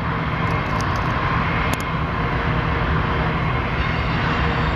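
Freight train's diesel locomotives running as the train comes down the hill: a constant drone with a faint steady whine above it.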